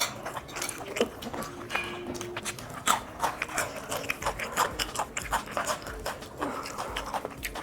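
Close-up sounds of people eating: biting and chewing food, heard as many short, irregular clicks and smacks.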